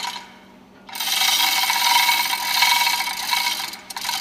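Metal-on-metal rasping and scraping of hand-tool work on a marine diesel fuel pump's lifting tool, most likely its centre screw being worked on the plunger. A short burst at the start, then a longer stretch from about a second in that stops shortly before the end.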